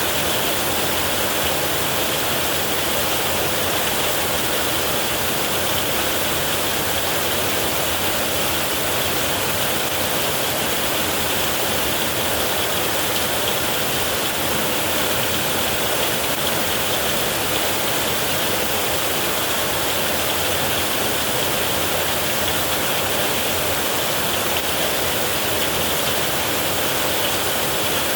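Heavy rain falling in a steady, even rush with no let-up and no thunder.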